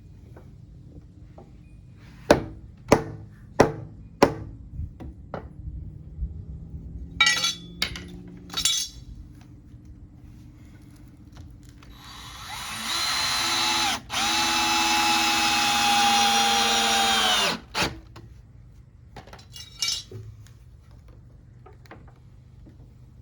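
Power drill driving a long screw into 2x4 framing lumber: a steady whirring run of about five seconds with a brief pause partway, the pitch sagging under load just before it stops as the screw seats. Earlier come four sharp knocks about half a second apart and two short blips of the drill.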